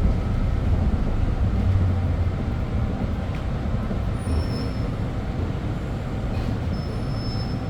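MTR M-train electric multiple unit running on the rails, a steady rumble that eases slightly as the train slows for its next stop. Faint thin high squeals come in over the second half.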